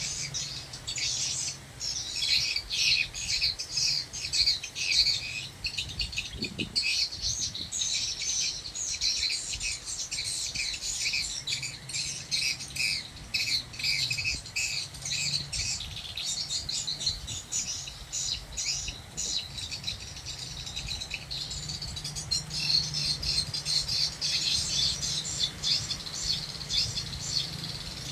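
Swiftlets twittering: a dense, continuous chatter of quick, high-pitched chirps from many birds overlapping, over a low steady hum.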